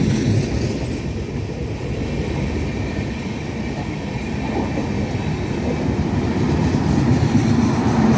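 Express train passenger coaches rolling past, a steady rumble of wheels on the rails with some clickety-clack, swelling slightly near the end.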